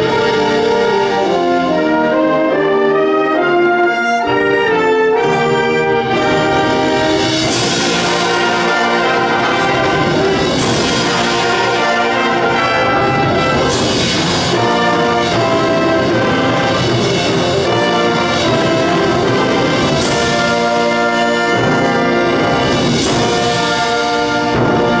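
A wind band plays a loud, brass-led passage of sustained full chords, with cymbal crashes every few seconds from about a third of the way in.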